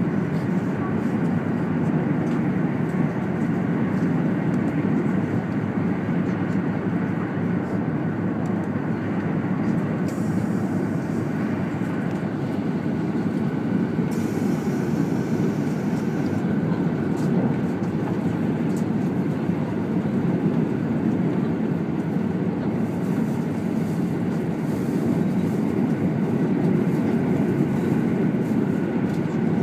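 Steady running noise heard inside the passenger cabin of a 200 series Shinkansen travelling at speed: an even, deep rumble with a lighter hiss above it.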